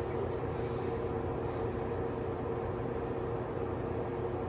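Steady low background rumble with a faint constant hum, unchanging throughout and with no distinct events.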